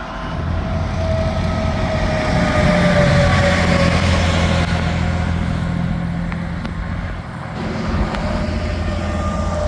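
Heavy trucks passing on an interstate highway: a loud engine drone and tyre whine that drops slowly in pitch as each one goes by. The loudest pass comes about three seconds in, and another vehicle arrives near the end.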